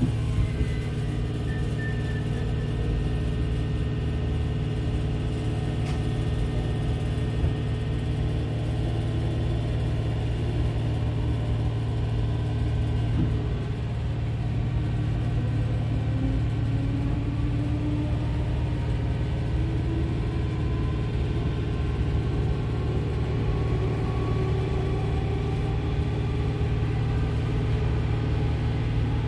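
Merseyrail electric train heard from inside the carriage as it pulls away from a station: a steady low rumble, with the traction motors' whine rising in pitch through the middle as the train picks up speed.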